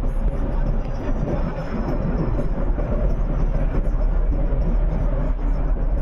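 A vehicle running steadily, with deep constant noise and a faint steady hum.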